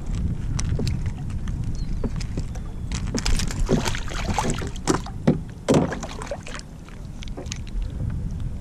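Water splashing around a kayak, with a cluster of sharp splashes in the middle, over a steady low rumble of wind on the microphone.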